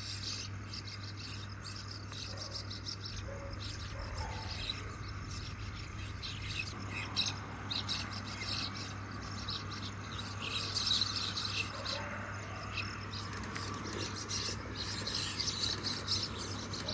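Flock of common mynas chirruping and chattering, many short calls overlapping, busiest about ten seconds in and again near the end.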